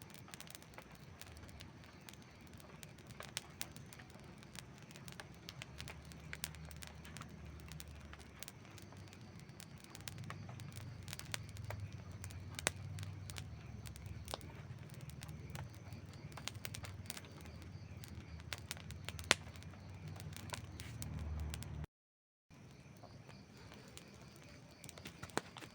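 Campfire crackling: irregular sharp pops and snaps over a low rumble that grows heavier about ten seconds in. Near the end the sound cuts out completely for about half a second.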